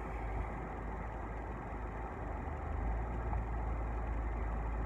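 Steady low rumble of an idling car engine heard from inside the cabin, with no distinct events.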